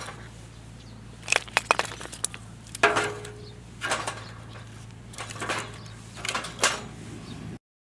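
Scattered sharp clicks and knocks around a wood-burning fire pit, a quick cluster of them early on and then single knocks about once a second, over a steady low hum; the sound cuts out abruptly near the end.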